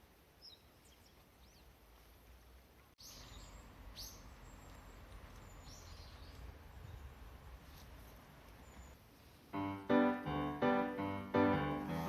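Faint outdoor ambience with a few short, high bird chirps, then background music with piano-like keyboard notes coming in near the end and becoming the loudest sound.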